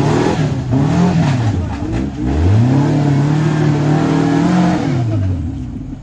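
Off-road 4x4 vehicle's engine revving. A short rev rises and falls, then a longer rev climbs and is held high for about two seconds before dropping away near the end.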